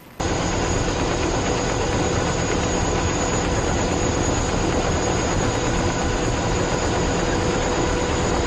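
Steady, loud aircraft engine noise with a faint steady whine, starting abruptly and cutting off suddenly.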